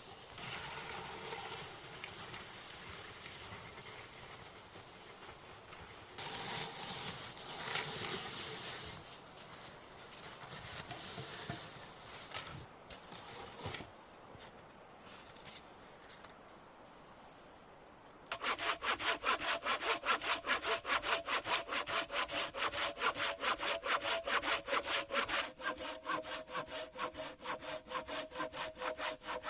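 Hand saw cutting through wood. Irregular scraping and rustling give way, a little over halfway through, to steady, rapid back-and-forth saw strokes, about four a second.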